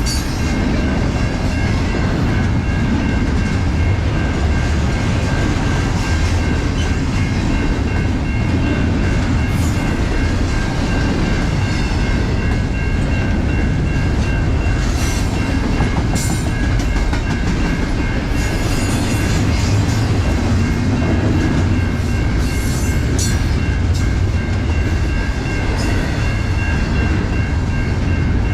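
A train's cars rolling steadily past at close range: a continuous rumble of wheels on rail with a steady high ringing from the wheels and rails, and scattered sharp clicks and squeaks.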